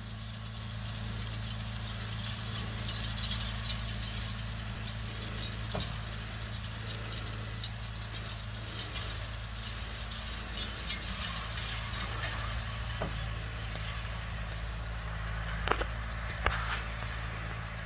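John Deere 6120 tractor's diesel engine running steadily while pulling a 450 grain drill, with metallic rattling and clinking from the working drill. A couple of sharp knocks come near the end.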